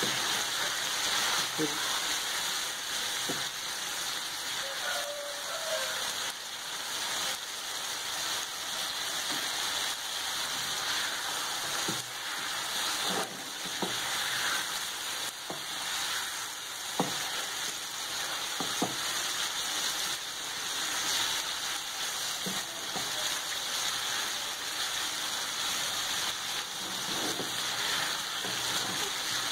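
Chicken livers sizzling steadily on a hot tawa griddle, with scattered short knocks and scrapes of a wooden spatula stirring them against the pan.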